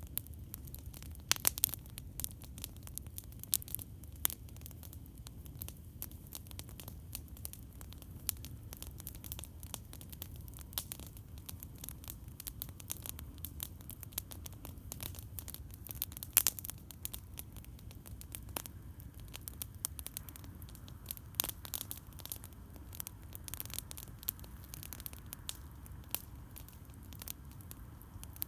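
Campfire crackling: frequent sharp pops and snaps at irregular intervals over a steady low rumble.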